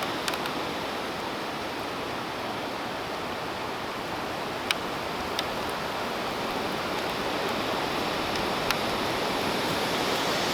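Strong wind during a cold front blowing steadily as an even rushing hiss, with a few faint sharp ticks.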